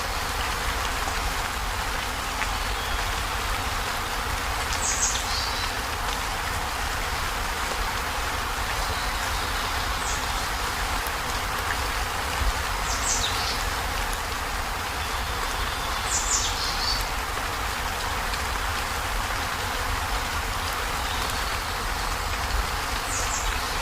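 Heavy rain drumming steadily on a corrugated zinc roof. Short, high chirps break in every few seconds.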